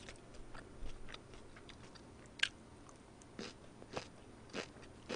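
Close-miked chewing of crunchy napa cabbage kimchi: faint, irregular wet crunches with mouth closed, a few crisper ones in the second half.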